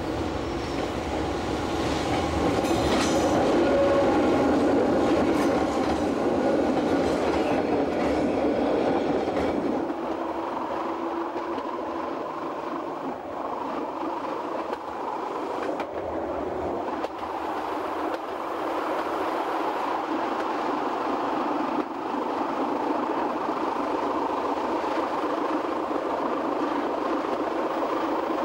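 A Fribourg Railways (GFM) metre-gauge electric train running on the track. Over the first ten seconds or so it is louder, with wheels clicking and clacking over points; after that comes a steadier wheel-on-rail running noise.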